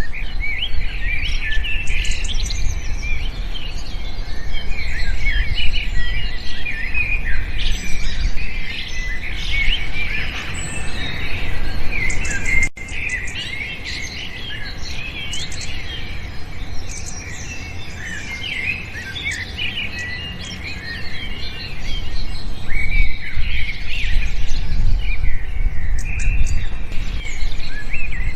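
A chorus of small songbirds chirping and twittering, with many short overlapping chirps and trills that never pause, over a steady low rumble. About halfway through there is a split-second dropout.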